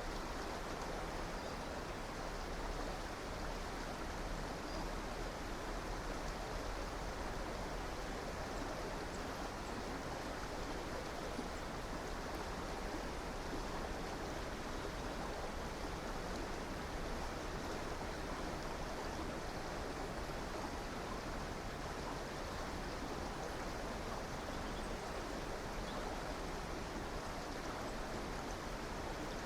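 River water flowing over stones, a steady unbroken rushing.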